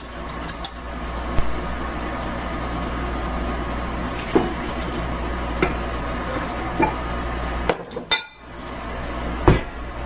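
Stand mixer running steadily with its paddle attachment, mixing rye bread dough, with a few sharp knocks and clinks from the bowl. The motor drops out briefly about eight seconds in, then runs again.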